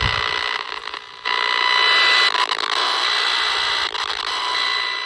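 AM radio receiver's speaker buzzing and hissing with radio-frequency interference radiated by a three-phase smart meter: a harsh, steady noise with a high-pitched whine in it. It drops out briefly about a second in, then comes back louder.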